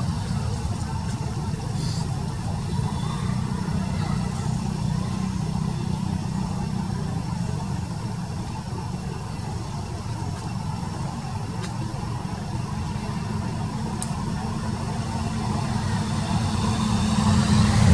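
A motor vehicle engine running steadily with a low rumble, growing louder near the end.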